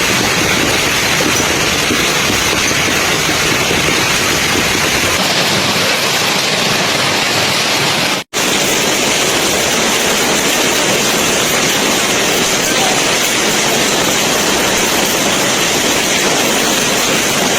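Loud, steady roar of a storm, with wind and pelting hail or rain making one dense noise. It drops out for a split second about eight seconds in, then resumes.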